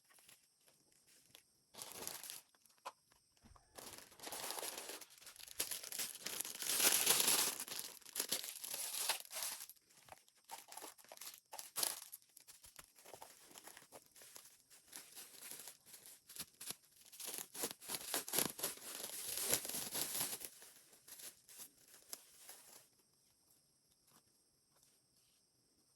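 Packaging being handled, crinkling and tearing in irregular bursts, loudest about a quarter of the way in and again about three quarters of the way through, as a doll box is unwrapped.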